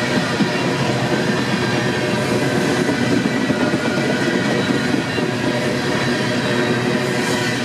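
Freight train running by: a steady, even rolling noise of the train with several steady tones over it.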